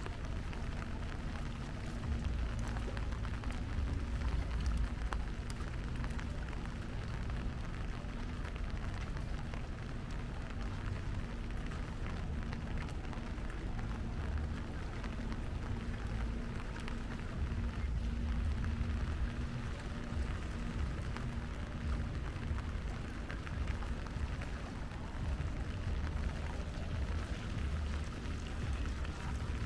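Steady rain falling and pattering on hard surfaces, over a continuous low rumble. A faint steady hum runs beneath it and fades out about three-quarters of the way through.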